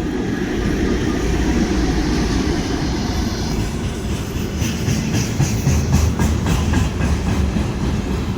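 A train passing close by with a heavy, steady rumble. From about three and a half seconds in, its wheels click regularly over the rail joints.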